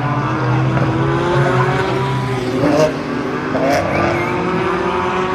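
GT race car engine accelerating under load, its pitch climbing steadily, with an upshift about three seconds in and then another climb.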